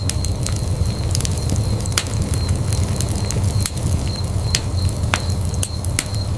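Wood fire burning in a fireplace, a steady low rumble of flames with sharp crackles and pops scattered a few times a second.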